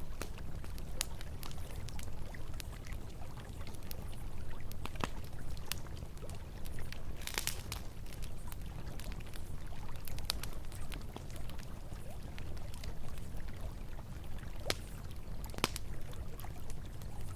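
Campfire crackling with scattered sharp pops, a quick cluster of them about seven seconds in, over the steady rush of a flowing river.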